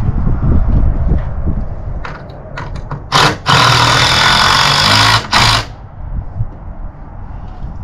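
A handheld power tool run in three bursts: a short one about three seconds in, a longer run of about a second and a half, and a short last one, with a few clicks just before.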